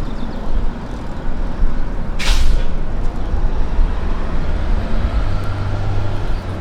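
Heavy road vehicle engine rumbling in city traffic, with one short hiss of air brakes about two seconds in.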